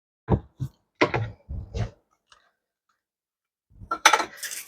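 A spoon knocking and scraping in a mixing bowl, a few short clanks in the first two seconds. Near the end comes a gritty grinding from a salt grinder being turned.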